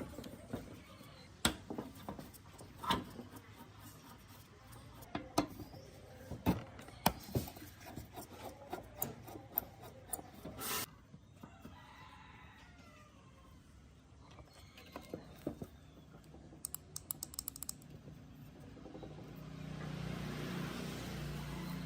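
Repair-bench handling: irregular knocks and clicks of hand tools and parts, with a quick run of small clicks past the middle and a steady hiss near the end.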